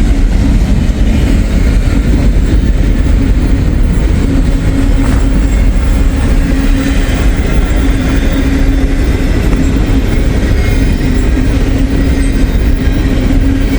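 Double-stack intermodal freight cars rolling past close by: a loud, steady rumble and clatter of steel wheels on rail, with a faint steady hum underneath.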